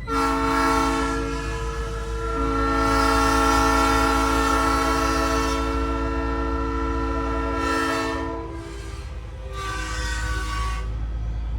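Truck-mounted Nathan Airchime train horn sounding its multi-note chord in one long blast of about eight seconds, then a shorter blast of about a second near the end, over the steady low rumble of the truck.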